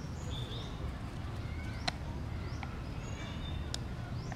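Short, high bird chirps scattered over a steady low rumble, with a single sharp click about two seconds in.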